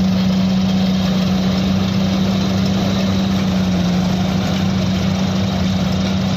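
Tractor diesel engine idling, a loud steady hum that holds without change.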